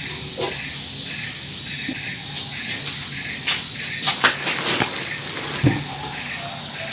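Insects droning steadily at a high pitch, with a second call pulsing at an even pace underneath. A few sharp crackles come about four to five seconds in.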